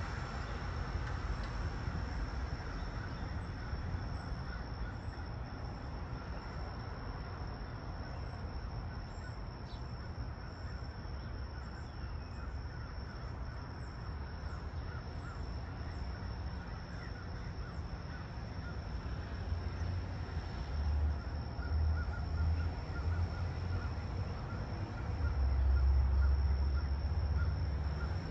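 Low rumble of a train at the station, swelling twice near the end, with a faint steady high whine above it.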